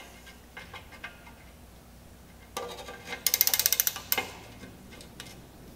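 Ratchet wrench clicking rapidly for about a second, near the middle, as a 13 mm nut is run off a rusted exhaust flange stud. A few light metallic clicks come before it.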